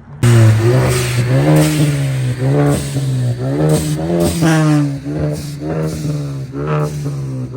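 Car engine revved at close range, the throttle blipped again and again so the pitch keeps jumping up and falling back over a loud steady running note. It starts suddenly just after the start.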